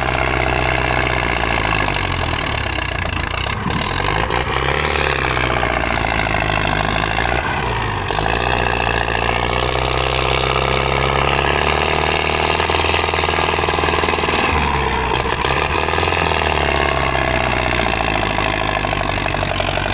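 Tractor diesel engine running steadily, its pitch rising and falling a few times as the revs change.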